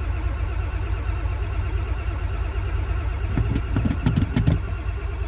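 Ford IDI diesel engine idling with a steady, even low pulse. A few short low thumps come between about three and a half and four and a half seconds in.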